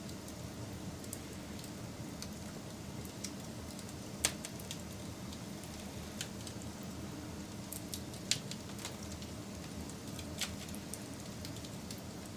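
Wood fire burning, a steady low rush with scattered sharp crackles and pops; the loudest pops come about four, eight and ten seconds in.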